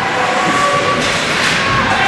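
Crowd noise in a large hall, with music and scattered high calls over a steady din.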